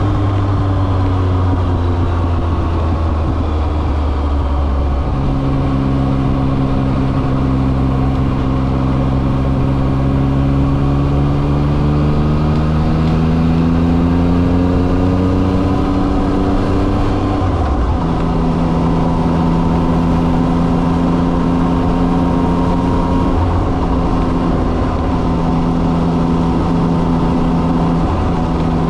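Yamaha XSR900's inline three-cylinder engine running under way. Its pitch climbs slowly for several seconds, drops sharply about two-thirds of the way through at a gear change, then holds steady.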